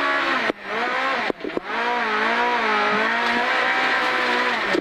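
Honda Civic Type-R rally car's four-cylinder engine running at high revs under full throttle, heard inside the cabin. The engine note cuts out briefly twice in the first second and a half, then rises and falls.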